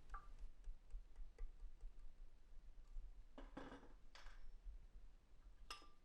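Faint clinks and knocks of metal gearbox parts and tools being handled: a few sharp clicks, a short clatter about three and a half seconds in, and a ringing clink near the end, over a low steady hum.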